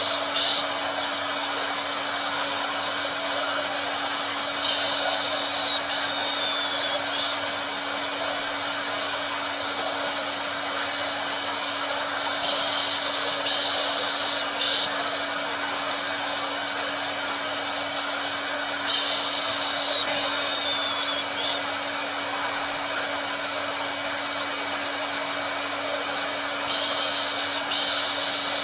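Hair dryer running continuously: a steady rushing blow with a constant low hum, and a brighter high hiss that swells for a second or two about every six to seven seconds.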